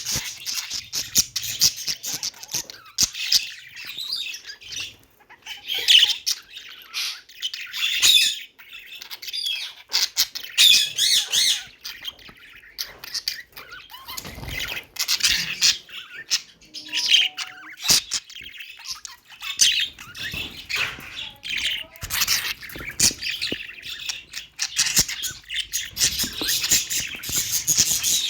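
Budgerigars chattering: rapid, high chirps and warbling in bursts, with short squawks.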